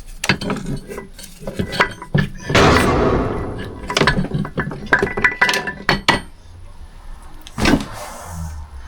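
Metal engine parts of a Porsche M96 engine clinking and knocking as a part is lifted off and set down, with a longer scraping slide about two and a half seconds in and another sharp knock near the end.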